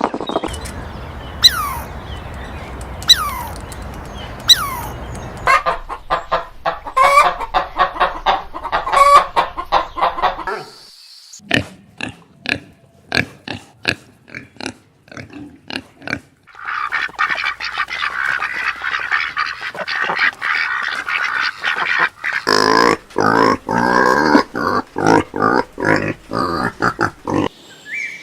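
Farm animals calling across several short scenes: three falling calls near the start, then runs of short repeated calls and grunts, with a dense chorus of calls in the last third.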